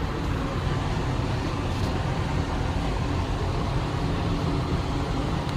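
Steady low rumble with hiss, like a vehicle's road noise while driving.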